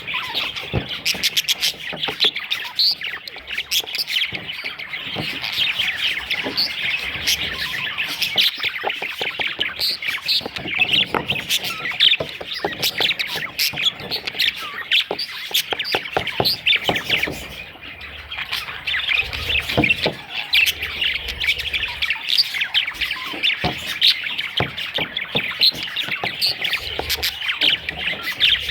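Many budgerigars chirping and chattering at once: a dense, unbroken din of short high calls, with a brief lull about two-thirds of the way through.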